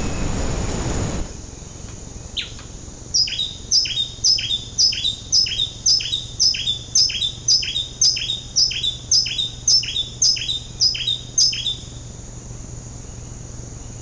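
A rush of noise cuts off about a second in. Then a bird calls a long, even series of sharp down-slurred notes, about two a second, for roughly eight seconds.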